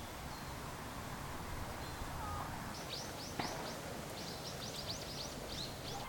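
Small songbirds chirping: a quick series of short, high, downward-sweeping notes in the second half, over a steady rushing background noise, with one sharp click about three and a half seconds in.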